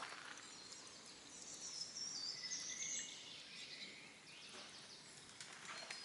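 A songbird singing a high warbling phrase about one and a half to three seconds in, over faint outdoor background noise, with a few soft footsteps on sandy ground near the end.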